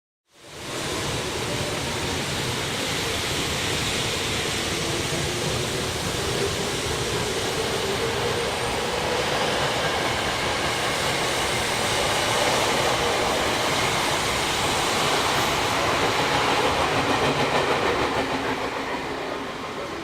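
Tokyo Metro Tozai Line train running alongside the platform: loud, steady rumbling noise with a faint whine that slowly rises in pitch. The noise swells gradually and eases off near the end.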